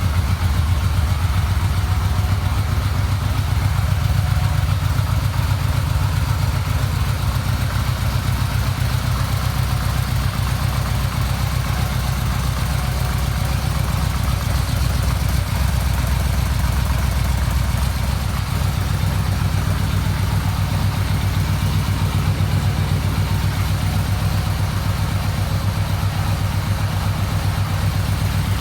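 Yamaha VMAX 1200's V4 engine idling steadily at an even pace.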